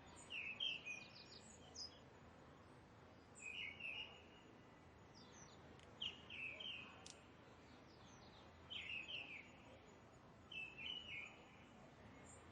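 A bird singing a short, chirpy phrase of quick notes, repeated five times at intervals of two to three seconds over a faint steady background hiss.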